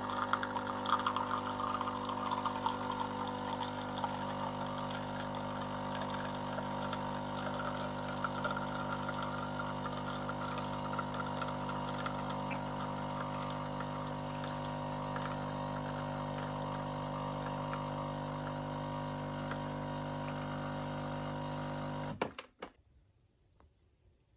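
Steady hum of an electric appliance motor running at one fixed pitch, cutting off suddenly near the end.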